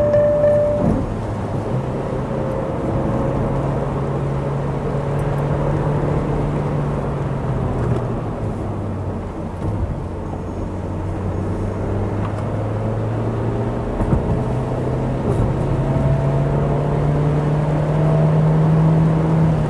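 Vauxhall Corsa's engine running under way, its note climbing slowly and dropping with speed and gear changes, over steady road and wind noise.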